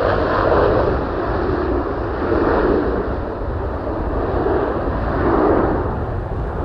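Airplane engine noise, a steady rush that swells and eases about three times, with no clear engine tone.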